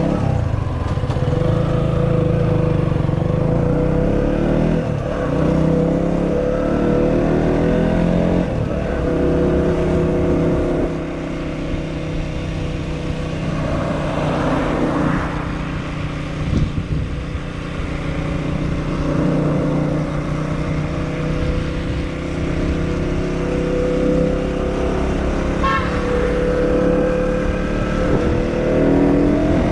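KTM Duke motorcycle engine running as the bike is ridden. Its pitch shifts with the throttle, with a few rising sweeps as it accelerates.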